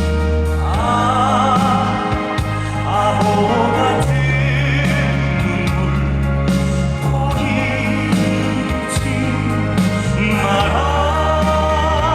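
Male singer performing a slow Korean ballad live, with band accompaniment underneath; his voice holds long notes with vibrato.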